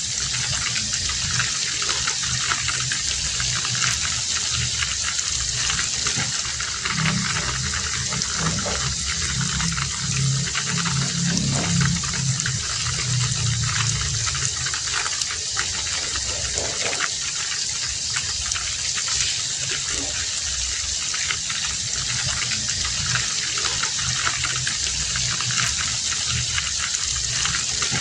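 Heavy rain falling steadily, an even hiss of pouring water, with a stronger low sound underneath for several seconds around the middle.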